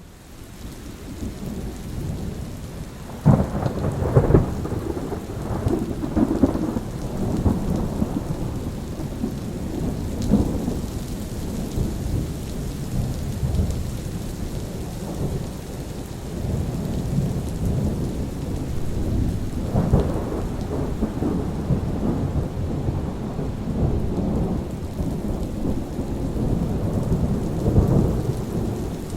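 Steady rain falling with rolling thunder rumbling underneath; the storm swells up at the start, then two sharp thunderclaps come about three and four seconds in and another loud peal near twenty seconds.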